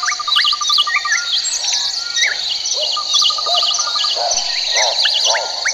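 Nature ambience of birds chirping and whistling over a steady, high insect trill, with a short rattling trill twice. About four seconds in, a run of lower repeated calls begins, about three a second.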